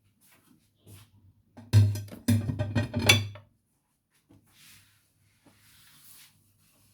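A quick run of loud knocks and clatter, like utensils and cookware being handled against a cooking pot, about two seconds in, followed by faint rustling.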